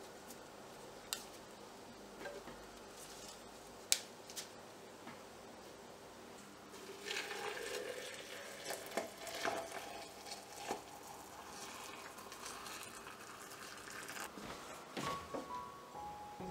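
Water poured from a kettle into a glass French press over flower petals and mint leaves, a steady splashing pour lasting several seconds through the middle. Before it come a few light clicks of glassware being handled, and near the end a couple of knocks.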